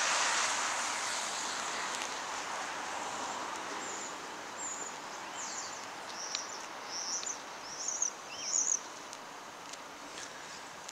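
Steady outdoor background noise, with a bird calling a run of short, high chirps through the middle of the stretch.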